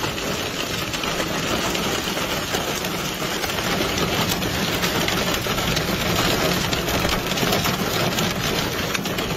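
Heavy rain making a steady dense hiss, with the low steady hum of a vehicle's idling engine beneath it.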